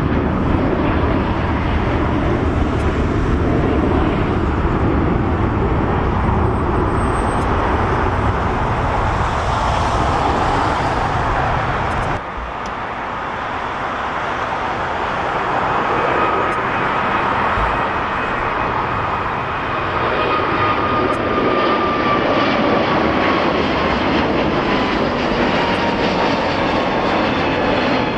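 Jet airliner engines running loud, a dense rumble that cuts off suddenly about twelve seconds in. Jet noise then builds again with a high engine whine that slowly falls in pitch.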